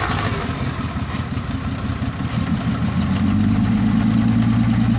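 Dump truck's diesel engine running with a pulsing low rumble, picking up and running harder about three seconds in.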